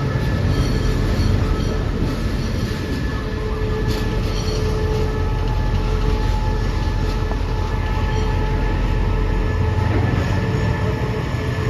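Train running past close by: a steady rumble of wheels on rail with a thin, high squeal from the wheels.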